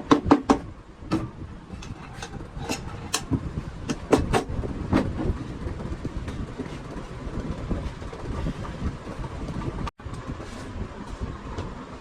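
Workshop noise: scattered sharp knocks and clicks over a steady low rumble, with a cluster of knocks near the start.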